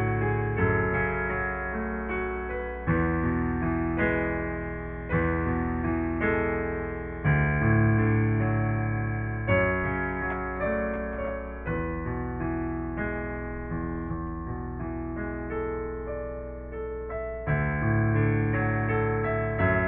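Piano playing slow sustained chords over low bass notes. A new chord is struck about every two seconds and rings out, fading before the next.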